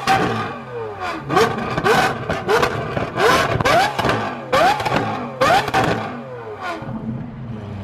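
Lamborghini Aventador SVJ's V12 with a Gintani F1 exhaust being revved in quick repeated throttle blips, each rev rising sharply and then dropping away. Loud pops and crackles from the exhaust come on the overrun between the revs. The revving dies down in the last second.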